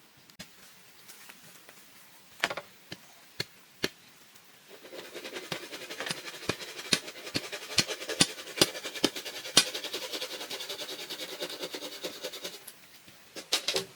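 A few sharp knocks, then about eight seconds of scraping dotted with many quick clicks and taps, which stops near the end, followed by two or three more knocks.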